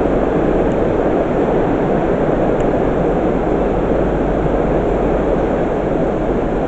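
Heavy rain falling in a steady, loud hiss, with a Class 323 electric multiple unit pulling out of the platform under it.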